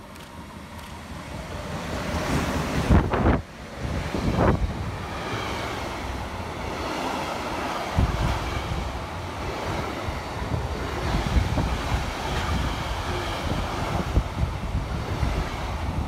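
A train passing the platform: a rush that builds over the first three seconds, then a steady rumble of wheels on rail with wind buffeting the microphone.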